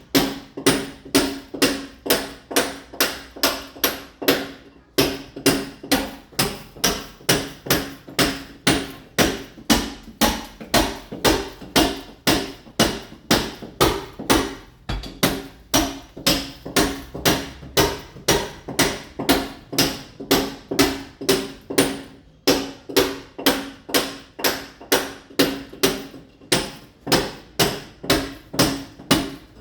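Mason's hammer blows chipping a masonry wall to roughen it for ceramic tile: steady, evenly spaced strikes about two to three a second, each with a short ringing note, broken by brief pauses about five seconds in and again past the twenty-second mark.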